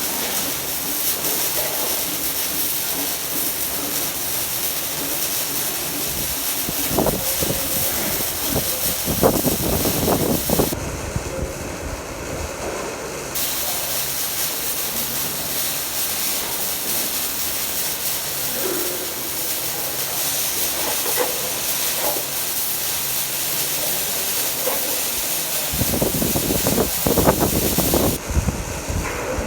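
Welding arc running with a steady hiss. It cuts out for about two seconds around eleven seconds in, starts again, and stops near the end. Louder low rumbling bursts come around seven to ten seconds in and again near the end.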